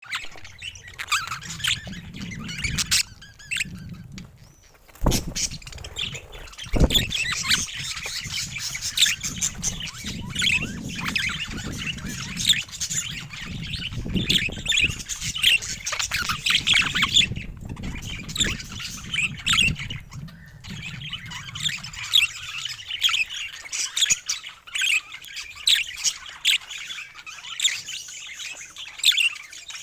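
Several budgerigars chirping and chattering continuously, with squawks mixed in. Two sharp knocks come about five and seven seconds in, under a low rumble that fades out after about twenty seconds.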